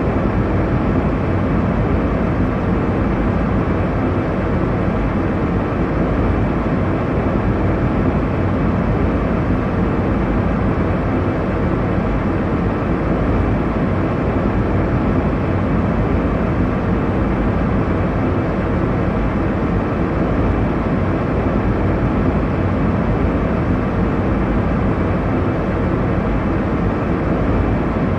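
Airliner cabin noise in flight: a steady, even rush of engine and airflow noise, strongest in the low range and dull in the highs.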